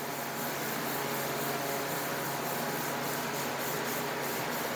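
Cloth rubbing over a metal exhaust pipe: a steady, continuous rubbing, with a low electrical hum underneath.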